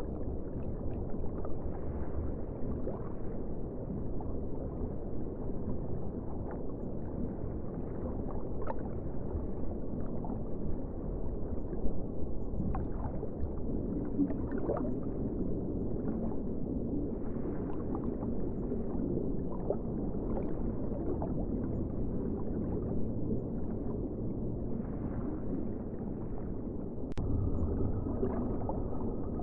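Muffled ocean water: a steady low wash with scattered faint ticks, growing slightly louder near the end.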